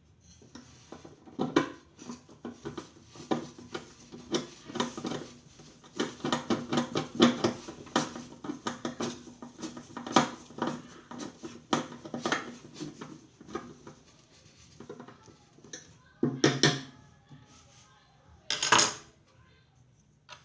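Hard parts and tools clinking and clattering as they are handled during microwave turntable-motor repair work, in many quick irregular knocks, with two louder, longer scrapes near the end.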